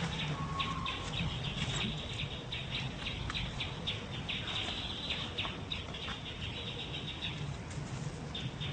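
Birds chirping: many short, quick chirps over a steady low hum, with one brief whistled note about half a second in.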